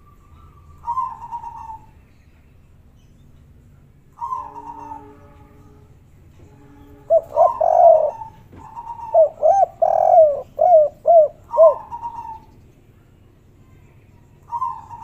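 Spotted doves cooing: single coos about a second in and around four seconds, then a busier run of overlapping coos in the middle, and another coo near the end.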